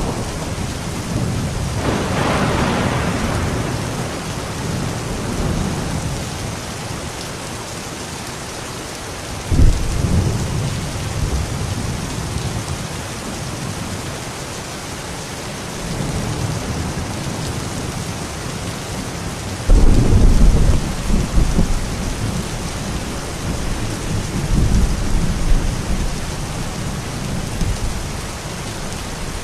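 Steady rain with thunder rumbling several times. One rumble builds about two seconds in, another starts suddenly around ten seconds, and the loudest starts suddenly around twenty seconds, followed by lesser rumbles.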